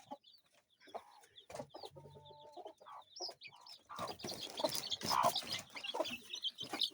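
Kienyeji chickens: hens clucking and chicks peeping with short high cheeps, getting busier and louder from about four seconds in.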